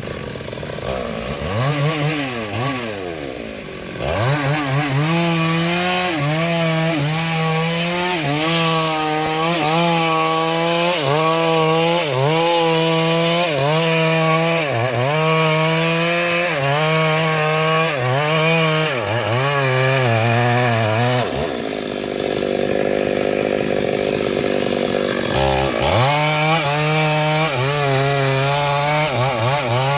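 Stihl MS382 two-stroke chainsaw cutting into a large sengon trunk. The engine revs up, then its pitch sags and recovers about once a second as the chain bites. It eases off for a few seconds about two-thirds through, then goes back into the cut.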